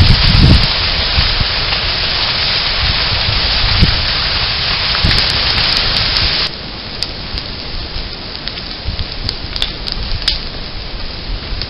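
Prescribed burn fire in the brush, recorded through a trail camera's microphone: a dense, steady hiss of burning with scattered crackles and pops. About six and a half seconds in the level drops abruptly, leaving a quieter hiss with separate pops.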